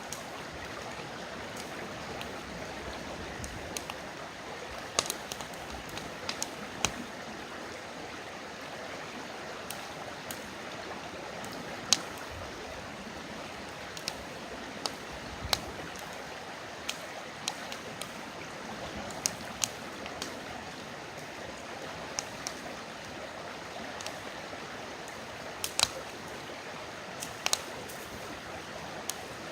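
Campfire crackling with sharp, irregular pops over the steady rush of a river's flowing water.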